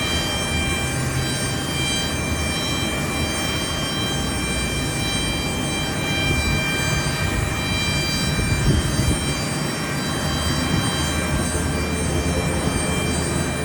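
Jet airliner engines running steadily: a high whine over a low rumble.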